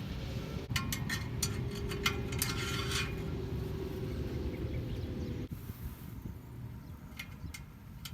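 Ratchet and socket clicking with metal clinks while exhaust clamps are tightened, in a quick irregular run over a steady low hum. The hum stops abruptly about five and a half seconds in, and a couple of lone clicks follow near the end.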